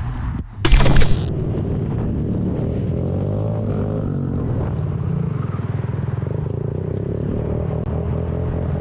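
A short, loud burst of noise about a second in, then a motorcycle engine running steadily, its pitch rising and falling a little as the revs change.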